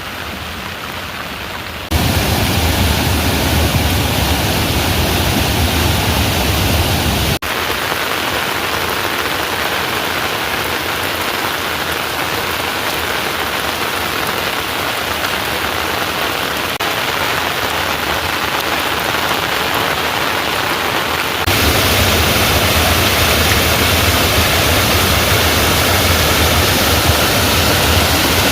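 Heavy rain falling, a dense steady hiss. It jumps abruptly in loudness a few times, with a deeper rumble underneath in the louder stretches.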